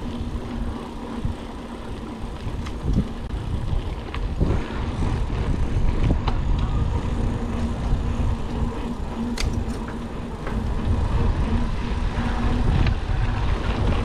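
Mountain bike rolling over a rough, rocky road: a steady rumble of wind and ride noise on the camera microphone, with scattered rattles and knocks from the bike jolting over the ground.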